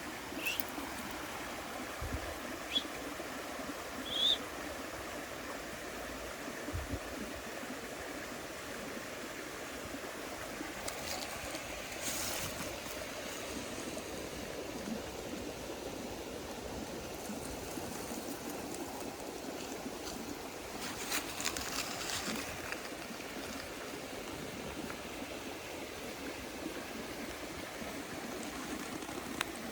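Steady rushing of a running stream, with a few short high chirps in the first few seconds and two brief bouts of scratchy rustling about a third and two-thirds of the way through.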